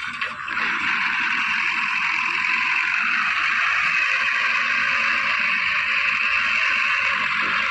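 Heavy earth-moving machinery running steadily, heard as a continuous, even mechanical noise with no distinct knocks or changes.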